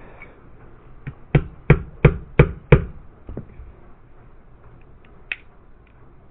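Five quick strikes of a mallet tapping a pin back into a Glock 17 pistol frame, about three a second, followed by two lighter knocks.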